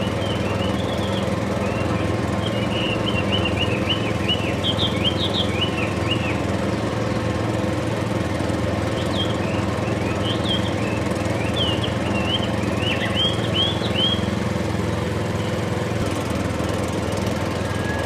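A small motor runs steadily with an even drone, the mini tractor's drive at work. Clusters of short high chirps come over it in the first six seconds and again from about 9 to 14 seconds.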